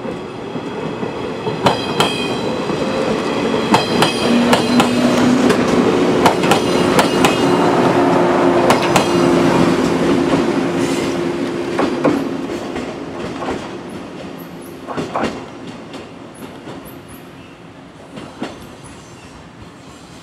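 JR 115-series electric train passing close by and running away, its wheels clicking over the rail joints above a steady hum. The sound is loudest midway and fades as the train recedes.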